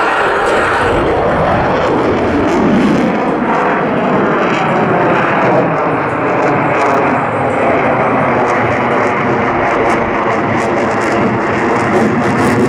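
Loud, steady jet noise from the F-22 Raptor's twin Pratt & Whitney F119 turbofan engines as the fighter flies its display, with the pitch and strength shifting a couple of seconds in.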